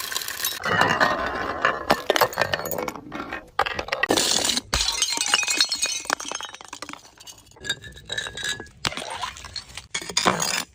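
Glass bottles breaking and being crushed, a run of sharp cracks with shards clinking and tinkling, with several louder bursts of shattering.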